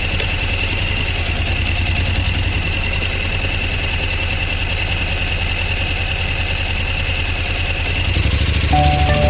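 Motorcycle engine running steadily with an even low pulse. Near the end, a new set of steady pitched tones comes in over it.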